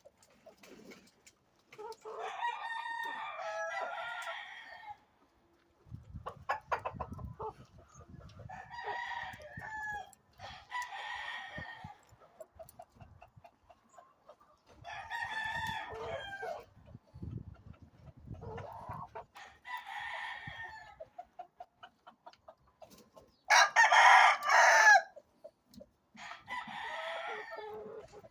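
Rooster crowing repeatedly, about seven crows with pauses between, one much louder crow near the end. A low rumbling noise runs underneath through the middle stretch.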